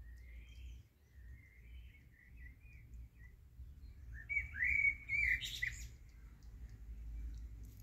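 Small birds chirping: a few faint chirps in the first three seconds, then a louder run of quick, curved chirps near the middle.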